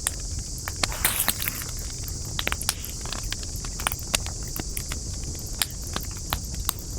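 Wood fire crackling, with irregular sharp pops and snaps over a steady low rumble of burning; a burst of quick crackles comes a little after one second in.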